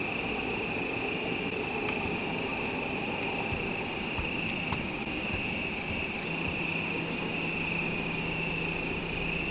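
Steady, high-pitched chorus of night insects such as crickets. A faster pulsing trill joins near the end, and a low steady hum starts about six seconds in.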